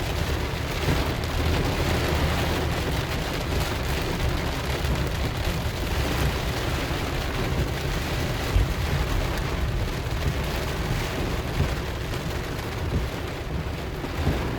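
Steady heavy rain falling, with a constant low rumble underneath.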